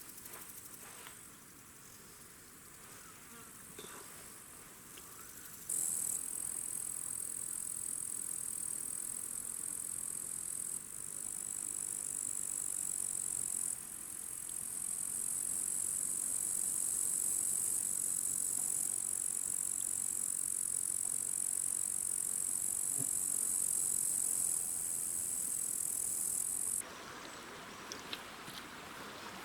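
Insects chirring steadily in a high-pitched drone that starts abruptly about six seconds in, jumps in loudness a few times and cuts off shortly before the end.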